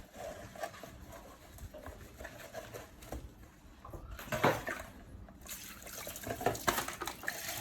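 Water splashing and trickling, fuller and louder from about two-thirds of the way in, with a brief sharp splash-like sound just past the middle.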